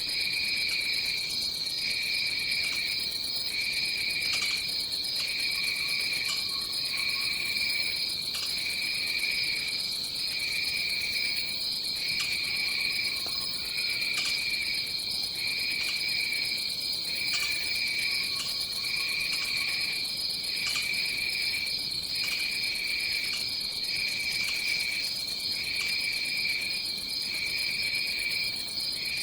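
Tropical insect chorus: a continuous high-pitched trill with a lower insect call pulsing underneath, each pulse a little over a second long with short breaks between. A few faint lower whistles come and go.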